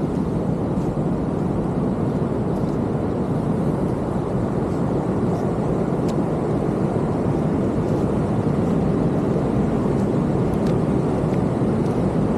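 Steady roar of ocean surf breaking on the beach, with a few faint clicks.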